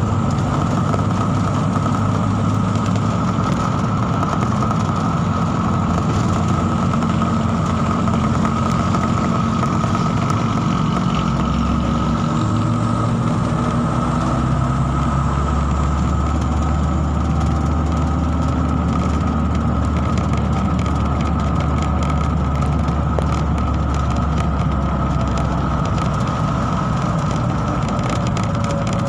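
A steady engine drone, like a motor running at idle, with a constant high whine over it; its low hum shifts slightly about twelve seconds in.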